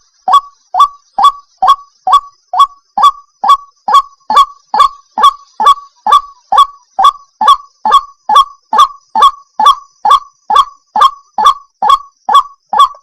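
White-breasted waterhen calling: a steady run of loud, harsh, repeated notes, about two a second.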